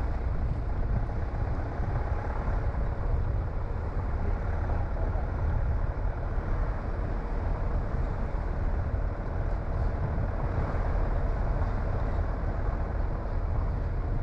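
A car driving along a road: a steady low rumble of engine and tyre noise with no sudden events.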